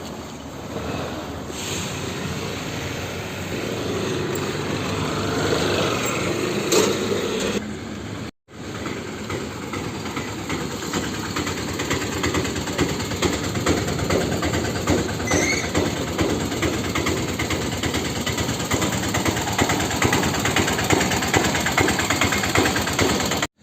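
Small two-wheeler engine running on the move, with heavy wind noise on the microphone; the sound cuts out for a moment about eight seconds in.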